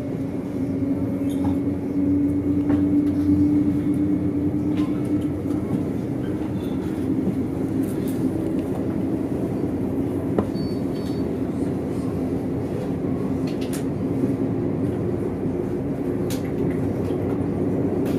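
Onboard running noise of a Stadler FLIRT passenger train pulling away from a stop. A steady low hum rises in loudness over the first two seconds as the train gathers speed, then settles into a steady rumble.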